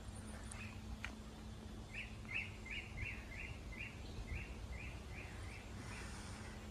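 A bird calling in a run of about a dozen short, even notes, nearly three a second, starting about two seconds in and stopping near the end, over a faint steady low hum.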